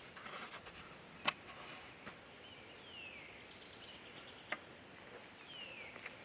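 Birds calling faintly outdoors: two descending whistled notes a few seconds apart and a short rapid trill, over steady outdoor hiss. Two sharp clicks, about a second in and again past the middle.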